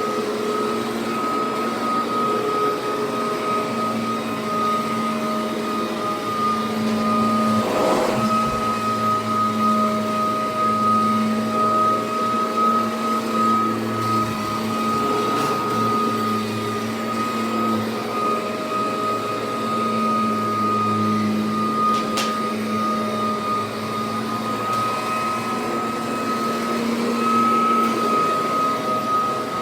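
Kirby Generation-series upright vacuum cleaner running while vacuuming, fitted with the older six-vane motor fan. It makes a steady motor whine, a high tone over a lower hum, both wavering slightly. There is a brief rush of noise about eight seconds in.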